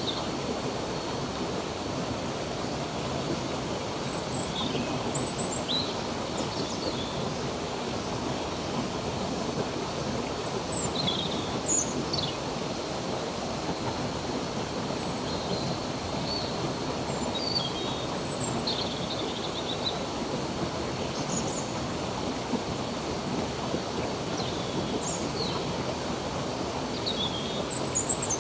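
Stream water running steadily, with birds giving short chirps every second or two above it.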